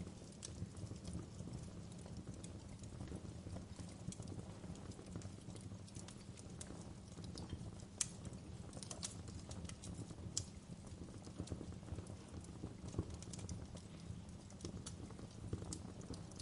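Wood fire crackling in a fireplace: irregular sharp pops and snaps, a few louder ones near the middle, over a steady low rumble of the flames.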